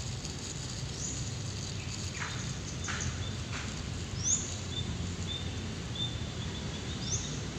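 Small birds chirping: short high calls and quick rising chirps about a second in, midway and near the end, with a few falling sweeps in between. A steady low rumble runs underneath.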